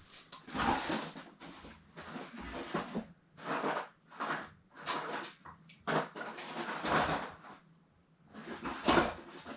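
Irregular rustling, scraping and knocking of hands working among plumbing parts and tools, in a string of short bursts with a brief lull near the end.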